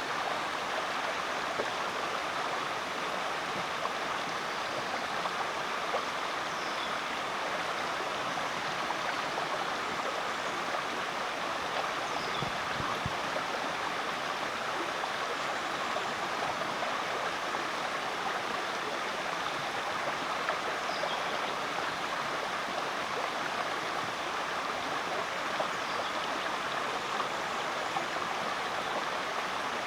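Rainforest creek water flowing with a steady, even rushing.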